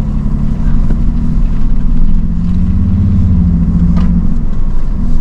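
An off-road vehicle's engine running at low speed along a trail, its low hum growing stronger from about two to four seconds in. A light knock about four seconds in.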